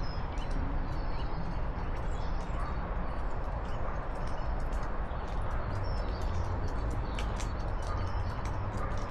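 Outdoor ambience: a steady low rumble with faint short bird chirps and scattered light clicks or steps.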